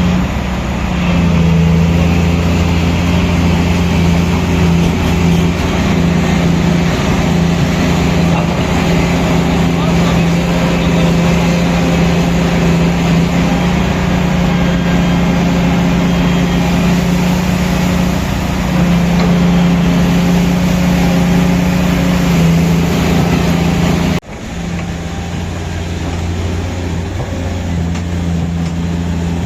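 Heavy diesel mining machinery running steadily, a deep engine hum under a broad mechanical noise. The sound cuts off abruptly about 24 seconds in and comes straight back.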